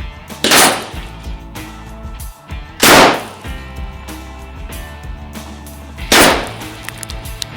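Three gunshots from a Thompson M1928 submachine gun in .45 ACP, about three seconds apart, each a sharp report that fades over about half a second, over background music.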